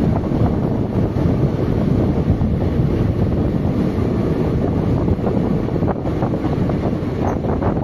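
Wind buffeting the microphone over the steady rumble of an express train running at speed, heard from the train's open doorway.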